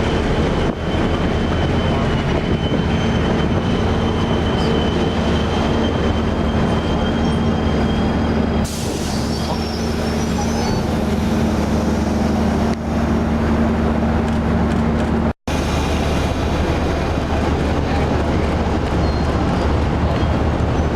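Passenger train running along the rails: a steady rumble with a low drone, and a faint high wheel squeal through the first several seconds. About nine seconds in a hiss joins the noise, and the sound drops out for an instant about fifteen seconds in.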